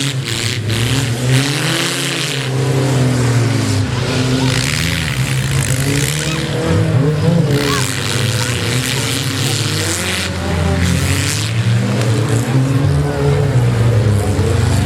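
Several demolition derby car engines revving hard, their pitch rising and falling as they accelerate and back off, with repeated rushes of harsher noise from the cars' tyres and collisions.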